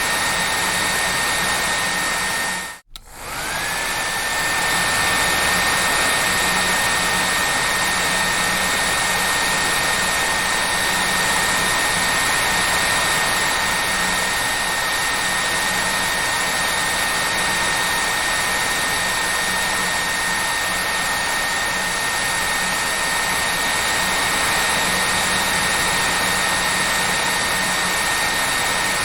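Hair dryer running with a steady airy rush and a high motor whine. About three seconds in it cuts out for a moment, then starts again, its whine rising back up to pitch before settling steady.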